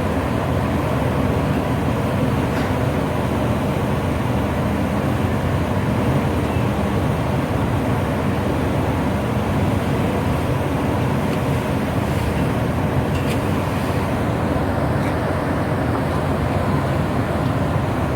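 Ship's engine running with a steady low drone under even noise, with a few faint clicks.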